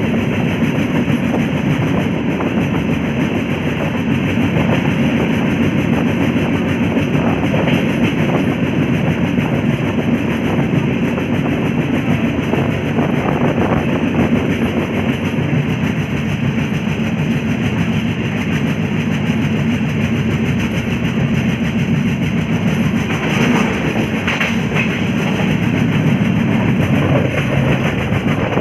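Passenger train running at speed, heard from an open coach doorway: a steady rumble of wheels on the rails, with a few brief louder clatters about three-quarters of the way through.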